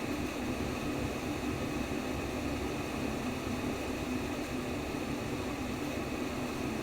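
Steady baby-sleep white noise: an even, unbroken rushing hiss with a low hum-like band beneath it, the same throughout.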